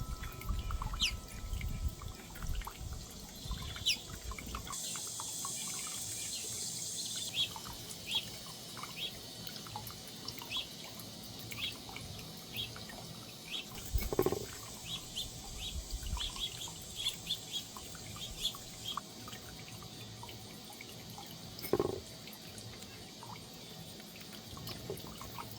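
Small wild birds chirping: many short, high chirps, thickest through the middle. Low wind rumble on the microphone in the first few seconds, and two dull thumps, about 14 s and 22 s in.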